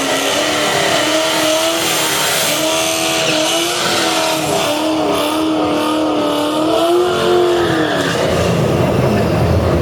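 Twin-turbo Mustang Cobra V8 drag car engine held at high, nearly steady revs with a slight waver. About eight seconds in, the pitch drops away and a low rumble remains.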